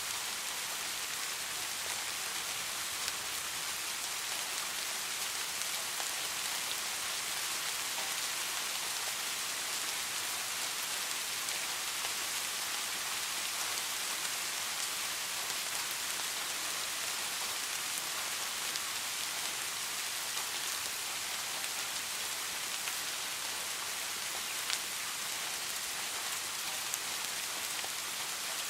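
Steady rain falling, an even hiss with a few brief, sharper drop ticks.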